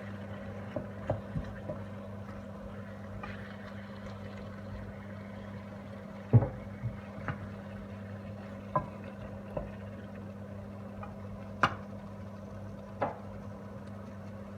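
Chicken pieces cooking in a pot with sautéed garlic, onion and tomato: a steady cooking hiss over a low hum, with scattered knocks of a utensil against the pot, the loudest about six seconds in.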